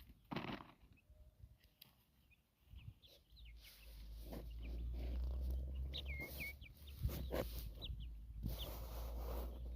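Free-range chickens foraging: scattered short, high, downward-sliding peeps and chirps, with a few bursts of noise and a steady low rumble beneath.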